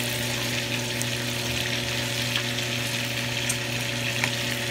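Pork chops frying in oil in a pan: a steady sizzle with occasional small pops, over a constant low hum.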